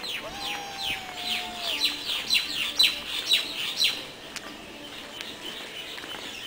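A bird calling a quick run of high, downward-sliding notes that grow louder and stop about four seconds in. Over the first second or so a lower, drawn-out whistle is also heard.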